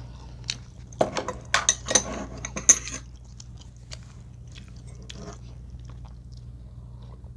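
Close-miked mouth sounds of a person eating: chewing and crunching, with a dense run of sharp crunches about one to three seconds in, then only a few faint clicks.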